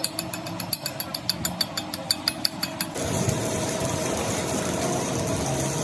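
Rapid, even metallic clicking, about six a second, then about three seconds in a steady machine noise starts abruptly and runs on: workshop machinery at work on a crankshaft repair.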